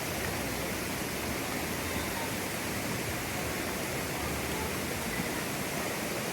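Steady rush of flowing water from a spring-fed stream.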